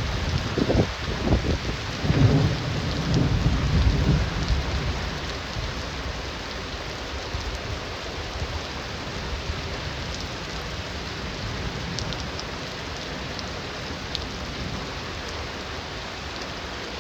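Heavy rain falling steadily, with a roll of thunder rumbling deep and loud during the first few seconds before fading back under the rain.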